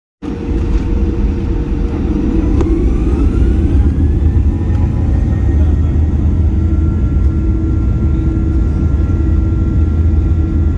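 Boeing 737 jet engines spooling up for take-off: a whine rises in pitch over a couple of seconds, then holds steady over a loud, deep rumble.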